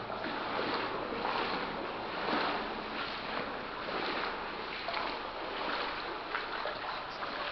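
People wading through deep standing water in a flooded tunnel, the water sloshing and splashing with each step. The sloshing stops abruptly near the end.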